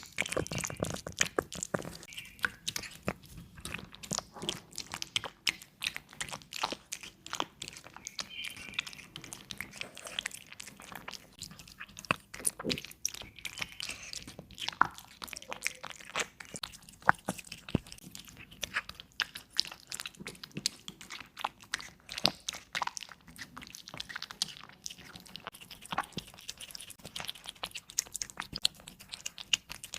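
A cat chewing its food with many quick, irregular crunches.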